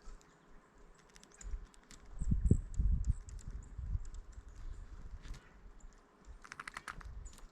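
Scattered light taps and clicks, with low thuds and rumbling in the middle and a quick run of taps near the end.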